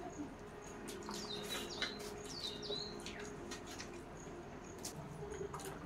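A few quick, high chirps from a small bird in the first half, over the steady hum of an electric table fan and faint clicks of fingers and food against steel plates.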